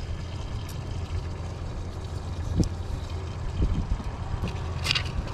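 Low, unpitched rumble of wind buffeting the microphone on an open fishing boat, with a few light knocks and a sharper click near the end.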